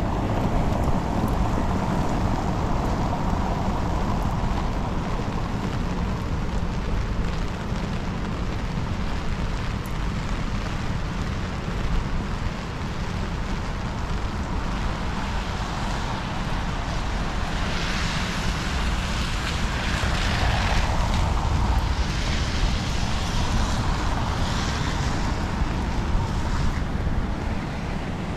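Rain-soaked city street ambience: a steady wash of rain noise and passing traffic, with a low rumble of wind on the microphone. In the second half, brighter hissing swells come and go several times.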